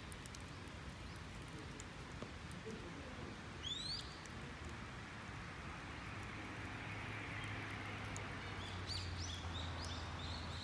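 Birds chirping outdoors: one rising call about three and a half seconds in, then short repeated chirps near the end. Under them a wood fire in a fire pit gives faint scattered crackles, and a low steady hum comes in about halfway.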